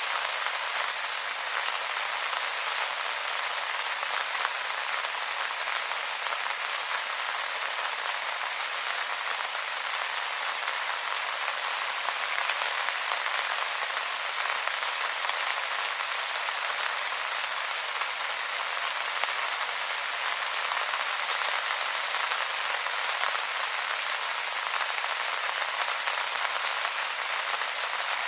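Steady rain pattering on wet leaves, a dense even hiss of many small drop impacts.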